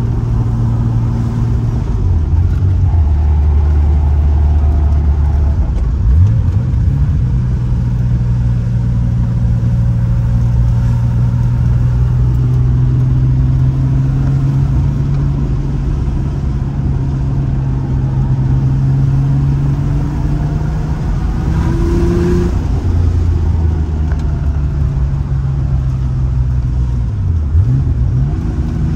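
1985 Porsche 911 Carrera's air-cooled flat-six running under load, heard from inside the cabin. The engine note drops and climbs again several times as the car is driven through the gears, with a steady, higher-pitched run in between.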